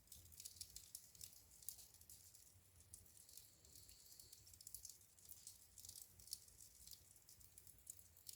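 Wood fire in a fireplace crackling faintly: many small, irregular sharp pops and snaps over a low steady rumble.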